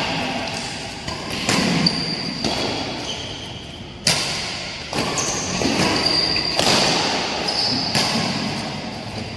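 Badminton rally in a sports hall: about half a dozen sharp racket-on-shuttlecock hits roughly a second apart, each echoing, with short high squeaks in between.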